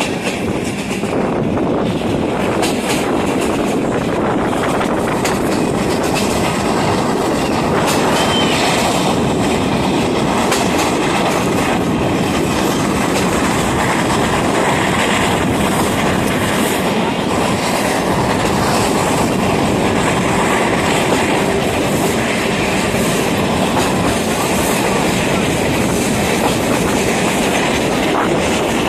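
Passenger train coaches rolling along the track, heard at the coach window: a steady rumble of steel wheels on rail with the clickety-clack of wheels over rail joints.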